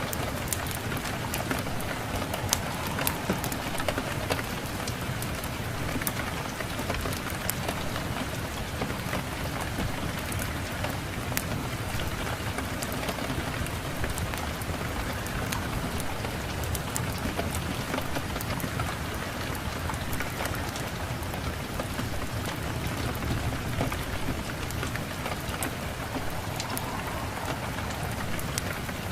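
Steady rain with scattered sharp pops and crackles from a wood fire.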